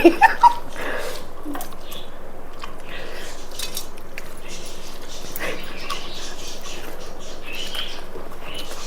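Faint eating sounds, chewing and rice mixed by hand with occasional light clicks, over a steady background noise, with a few short sharp sounds in the first half second.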